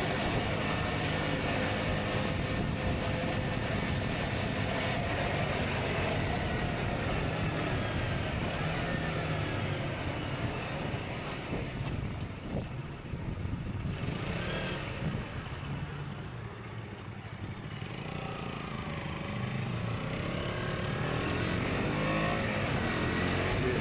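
KTM Duke 125's single-cylinder four-stroke engine, fitted with an Akrapovic exhaust, under way with wind rushing past. The revs rise and fall, ease off and quieten in the middle, then climb again through the last few seconds.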